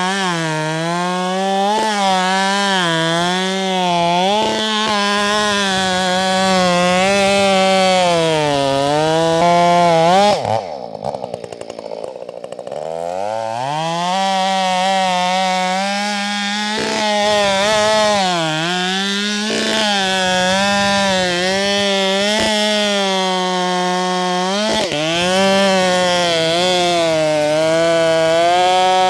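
Husqvarna 572 XP two-stroke chainsaw with a 24-inch bar running at high revs, bucking a large pecan trunk, its pitch wavering as the chain loads in the wood. About ten seconds in, the revs fall sharply toward idle, then climb back up to full speed a few seconds later.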